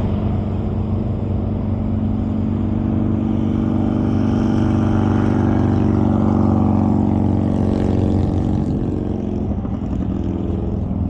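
Semi-truck diesel engine running with a steady low drone, growing louder from about three seconds in and easing off again near the end.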